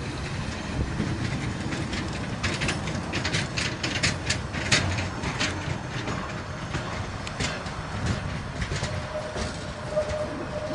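Balfour Beatty engineering train of container wagons and a power car passing close by: a steady rail rumble with a run of sharp wheel clacks over the rail joints a few seconds in, more scattered clacks later, and a faint steady whine near the end.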